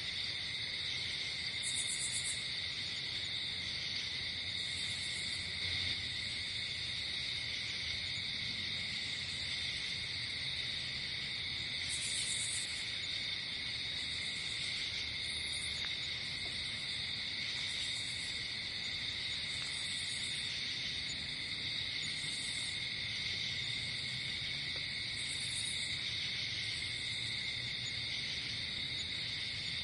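Night insect chorus: a steady, continuous chirring of crickets at two pitches, with short, higher-pitched insect buzzes breaking in every few seconds.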